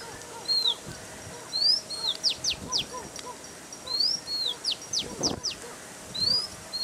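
A songbird singing a repeated phrase: a rising whistled note, then a falling one, then a quick run of three or four sharply descending notes, coming round about every two seconds. Fainter short chirps sound lower underneath.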